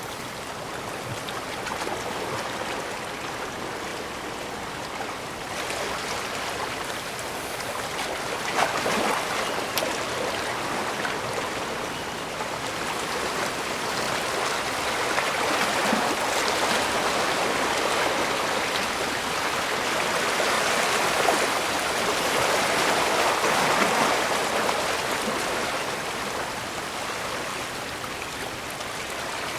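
Bay water washing against the shoreline: a steady rush of water that swells and eases slowly, loudest twice, once about a third of the way in and again later.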